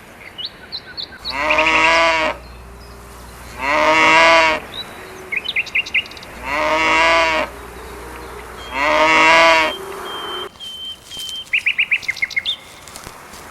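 Cattle mooing four times, each call about a second long and evenly spaced. Birds chirp briefly between the calls and after them.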